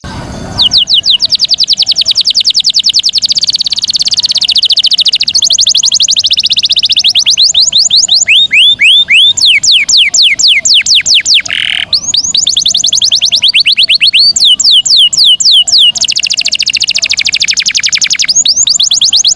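Domestic canary singing: long rolling trills of fast down-sweeping notes, around fifteen a second, switching to a new trill every second or two with a few short pauses.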